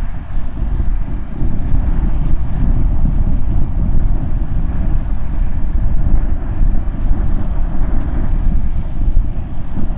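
Case IH Magnum 305 tractor's diesel engine running steadily, mixed with heavy low wind buffeting the microphone.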